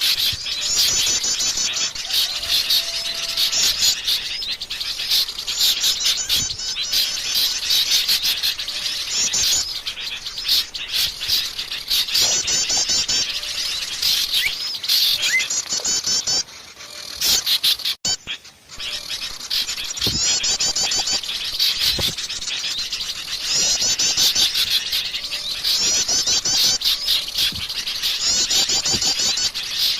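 Wild forest birds chirping and singing together in rapid, high-pitched trilled phrases that repeat over and over. The chorus drops away briefly a little past the middle, then resumes.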